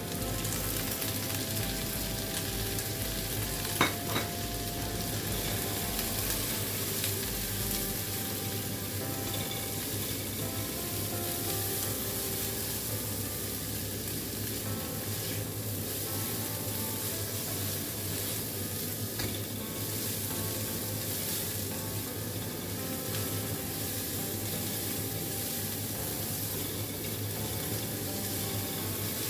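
Sliced green and red chillies sizzling in hot oil with garlic in a wok, stirred with a silicone spatula. There is a sharp knock about four seconds in.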